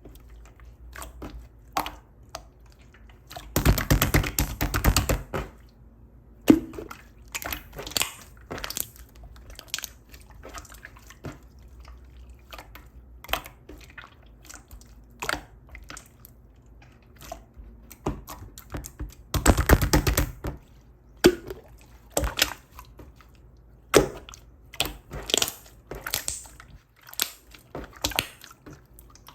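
Clear slime being squeezed and poked by hand, giving scattered sticky clicks and air-bubble pops, with two longer runs of rapid crackling, about four seconds in and again near twenty seconds.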